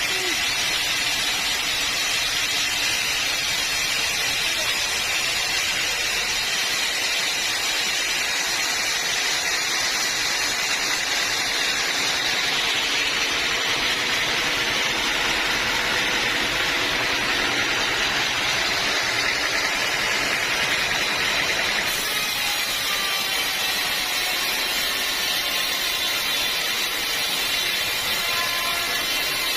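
Sawmill saw cutting through a log of hard, dense-fibred acacia wood: a steady, even rushing noise with no break. Its character shifts slightly about twenty-two seconds in.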